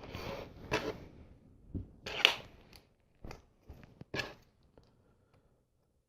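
Small plastic LEGO pieces being handled and fitted together: a scatter of short clicks and brief rustles, stopping after about four seconds.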